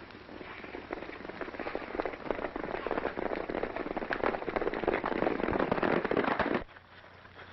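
Several horses galloping hard in a chase, their hoofbeats a dense clatter that grows louder, then cuts off abruptly near the end.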